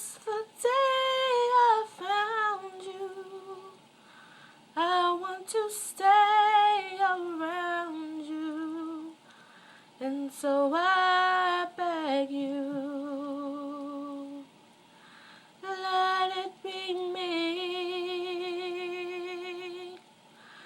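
A woman singing alone, with no accompaniment. She holds long notes with a wavering vibrato, in phrases separated by short pauses.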